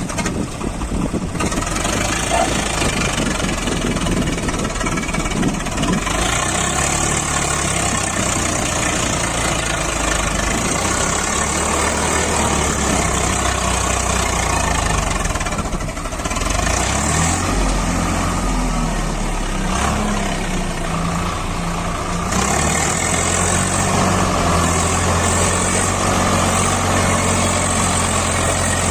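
Swaraj 744 FE tractor's three-cylinder diesel engine running continuously while working the loaded soil test. Its engine speed shifts up and down for a few seconds past the middle, then settles and holds steady.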